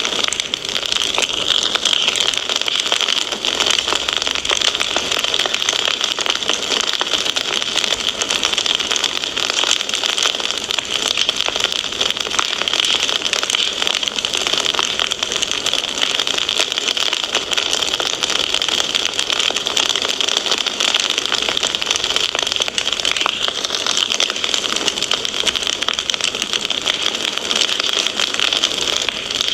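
Wood fire crackling steadily, a dense run of small pops and snaps over a continuous hiss of burning.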